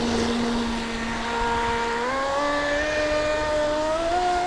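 Large-scale electric RC speedboat's brushless motor whining as it runs. The whine holds steady, then steps up in pitch about halfway through and keeps climbing as the boat gathers speed.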